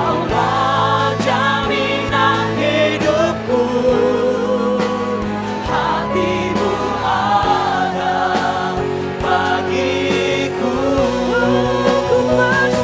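Church worship band and singers performing a slow gospel worship song, with voices singing long wavering notes over sustained keyboard and a steady beat.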